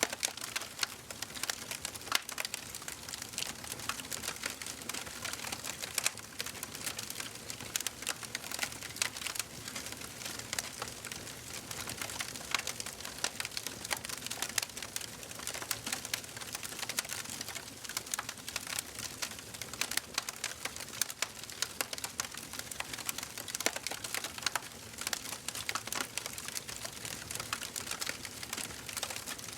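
Wood fire crackling steadily in a fireplace: a constant hiss of burning with dense, irregular pops and snaps, a few sharper pops standing out.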